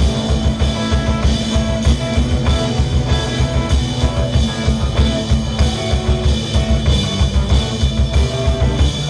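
Live rock band playing an instrumental stretch between vocal lines: a drum kit beating steadily under bass guitars and electric guitars holding droning notes.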